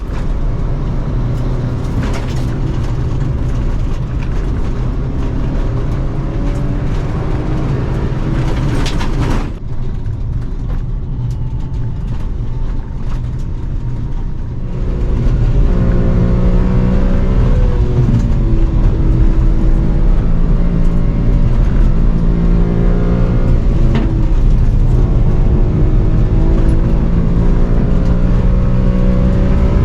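Car engine pulling hard under heavy acceleration, its pitch climbing and dropping back again and again as it changes gear, getting louder about halfway through.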